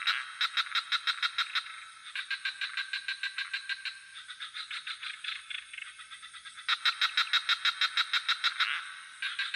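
A chorus of frogs calling in rapid pulsed croaks, about six or seven a second, in overlapping bouts of a second or two, the loudest near the start and again about seven seconds in. A steady high-pitched insect drone runs underneath.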